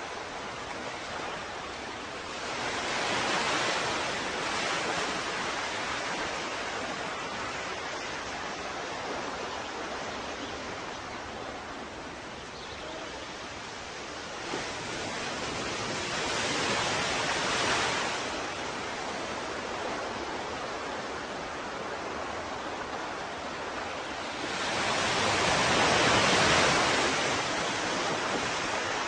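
Ocean waves breaking and washing on a shore: a steady hiss of surf that swells three times, about every eight to ten seconds, the last swell the loudest.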